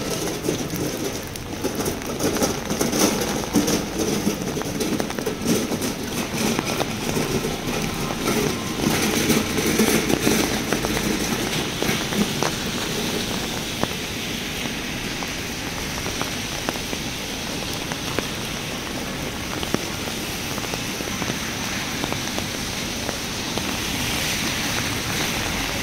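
Heavy rain falling on a city street, a steady hiss with scattered drop clicks. Street noise sits under it and is louder for about the first twelve seconds.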